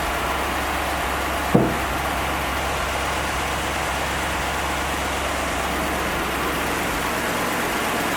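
1957 Monarch's 312 V8 idling steadily. A single clunk with a short metallic ring sounds about a second and a half in.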